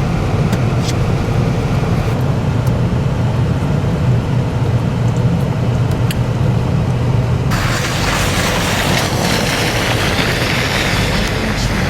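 Car road noise heard from inside the cabin: a steady low rumble of engine and tyres. About seven and a half seconds in, a louder hiss joins abruptly and stays.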